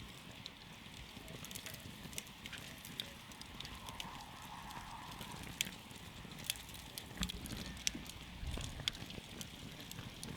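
Campfire crackling: irregular sharp pops and snaps of burning wood over a low, steady noise of the flames.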